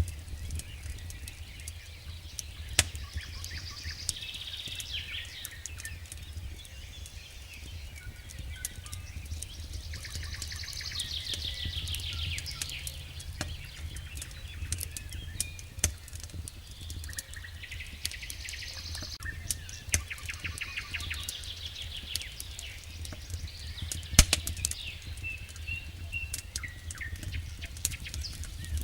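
Wood fire in a fireplace crackling, with a steady low rumble and scattered sharp pops, the loudest about three seconds in and again near the end. Runs of rapid high ticking come and go.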